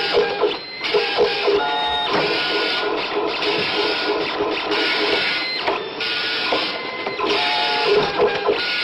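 Dot-matrix computer printer printing a graphic: the print head buzzes in fast rhythmic passes, broken by brief pauses.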